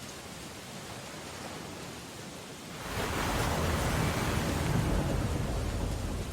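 Storm ambience of rain on window glass as a steady hiss; about three seconds in, a louder surge with a deep rumble rises, holds for a few seconds and starts to ease near the end.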